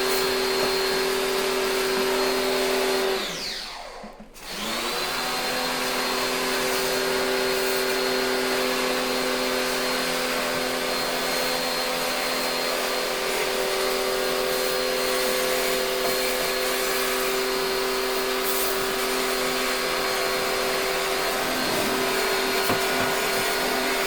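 A vacuum cleaner motor running with a steady whine. It is switched off about three seconds in and winds down, then is switched back on and spins up again about a second later.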